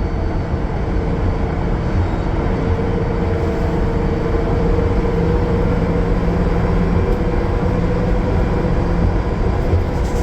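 Cummins ISL9 diesel engine of a 2020 Gillig Low Floor transit bus running at highway speed, with road noise: a steady low drone with a constant whine over it, and a lower hum joining about halfway through.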